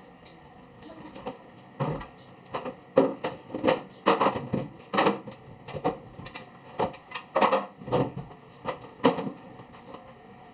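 Irregular knocks and clatter of hard household objects being handled and set down, one or two a second.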